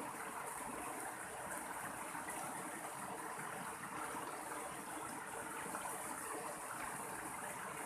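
Mountain stream water flowing over rocks: a steady, even rushing.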